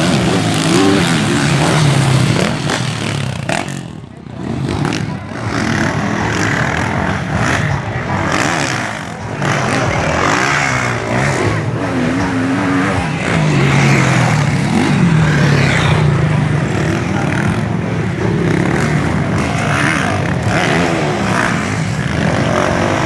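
Motocross bike engines revving up and down as the bikes race, the pitch rising and falling again and again, with a brief drop in level about four seconds in.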